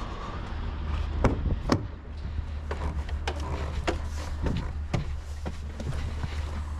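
Truck's diesel engine idling with a steady low hum, with several sharp knocks and clacks on top, the loudest two close together about a second and a half in.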